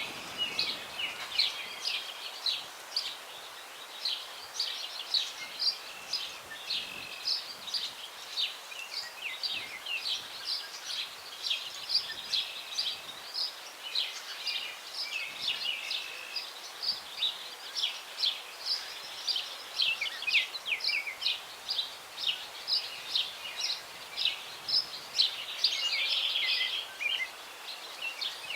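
A chorus of songbirds chirping and singing at once: a dense, continuous run of short high calls and trills from several birds, over a faint hiss of breeze.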